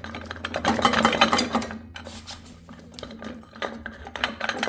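Metal clinking and rattling of a wrench and a long bolt being worked out of a small engine's air filter housing, dense quick clicks that are busiest in the first two seconds, over a steady low hum.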